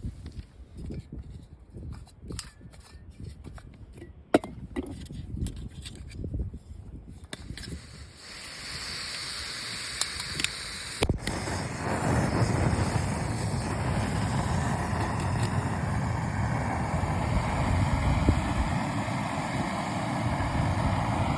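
Wind buffeting the microphone with scattered knocks, then about eight seconds in a steady rushing hiss comes up and grows louder a few seconds later: a Jetboil Flash canister stove's burner running.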